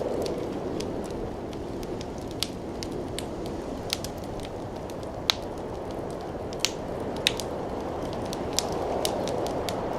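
Fire burning in a fireplace: a steady low rush of flame with irregular sharp crackles and pops, several of them louder.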